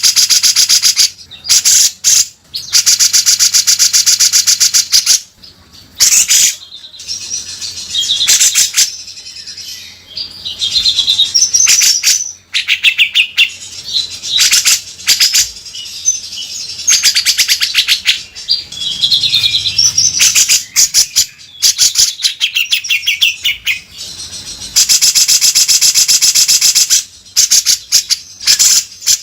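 Cucak jenggot (grey-cheeked bulbul) singing loudly without pause: long, harsh, rapid rasping rattles of a second or two, the coarse 'beset' call, alternating with short whistled warbling phrases.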